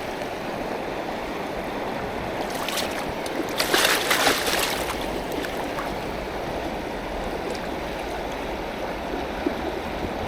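River water flowing steadily over rocks, with one brief louder burst of noise about four seconds in.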